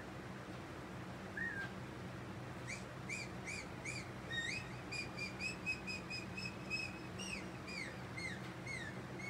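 A songbird singing, with bright whistled chirps: a few quick chirps, then a fast even series of repeated notes, then falling notes near the end. A low steady hum runs underneath.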